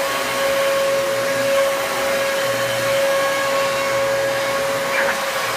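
Dyson DC33 upright vacuum cleaner running steadily: a constant motor whine over rushing airflow.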